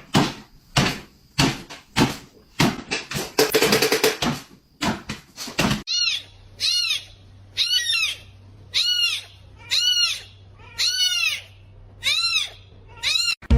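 A rapid run of sharp knocks and clatter, then from about halfway an animal giving about ten short, high calls that rise and fall in pitch, roughly one and a half a second.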